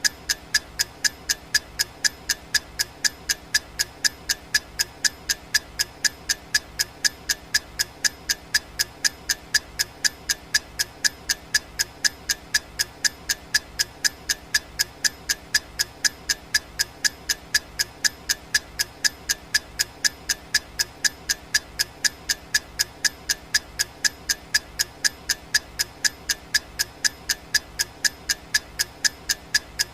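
Clock ticking sound effect: sharp, evenly spaced ticks at a steady rate, each with a slight ringing click.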